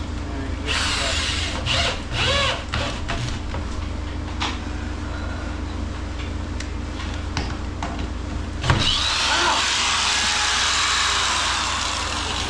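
Power drill driving a long screw into wood in short runs with clicks and knocks, then a sharp knock about nine seconds in followed by several seconds of loud running, as the drill binds and locks up, twisting out of the user's hand. A steady low hum sits underneath.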